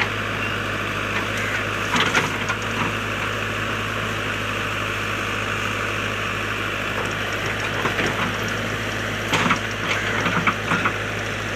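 JCB backhoe loader's diesel engine running steadily, with a few short sharp cracks about two seconds in and a cluster of them near the end.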